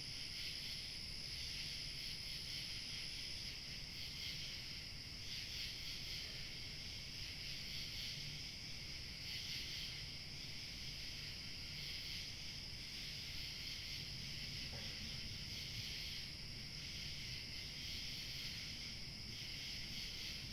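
A dense chorus of crickets chirping steadily, one continuous high shrill with faint pulsing. Light wind rumbles low underneath.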